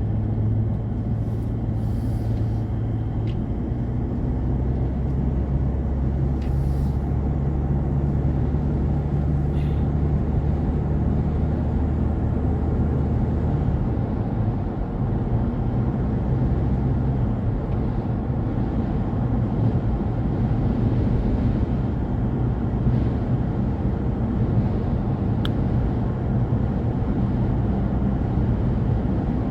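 A car driving along a road: steady engine hum and tyre and road rumble, with the engine note shifting in pitch a few times.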